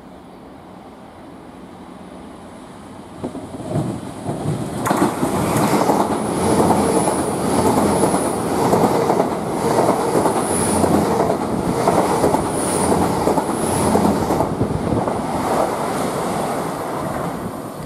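LNER Class 800 Azuma bi-mode train passing close by. It grows loud about four seconds in, with the wheels clattering over the rail joints and several brief high-pitched wheel squeals, then eases off slightly near the end.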